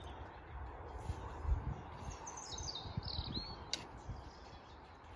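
Wind rumbling on the microphone, with a songbird singing one short phrase of chirps stepping downward in pitch about two seconds in.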